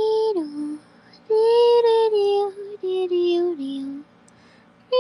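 A woman singing a wordless tune in a high, light voice: three short phrases of held notes, each stepping down in pitch, with brief pauses between them.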